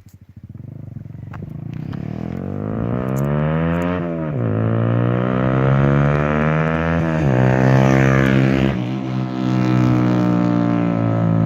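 Honda CBR125R's 125 cc single-cylinder four-stroke engine pulling away from a low, pulsing idle and accelerating through the gears. The pitch climbs, then drops sharply at each upshift, about four and seven seconds in, and the engine grows louder as it goes.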